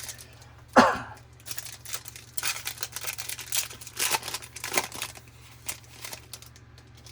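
A foil baseball-card pack wrapper being torn open and crinkled: a dense run of sharp crackling rustles that dies away near the end. A short throat sound comes about a second in.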